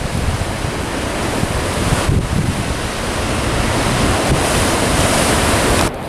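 Steady wash of ocean surf with wind on the microphone, cutting off suddenly near the end.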